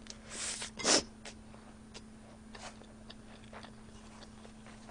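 Eating sounds: a few crisp bites in the first second, the loudest about a second in, then scattered fainter chewing clicks.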